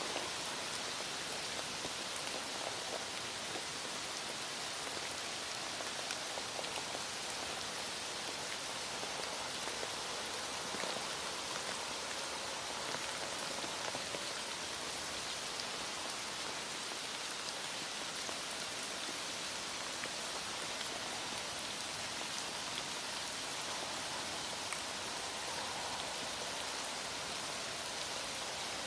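Heavy rain falling steadily, a dense even hiss of drops on a hard surface.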